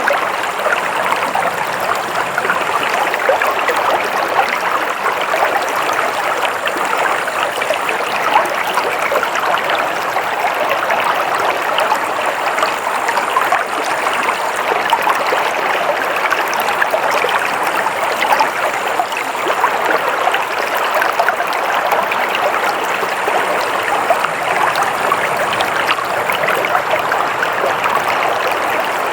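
Stream water flowing and babbling steadily, an even rushing with fine splashing detail and no breaks.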